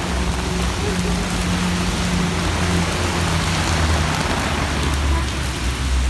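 Heavy rain falling steadily on pavement, an even hiss with a low rumble underneath.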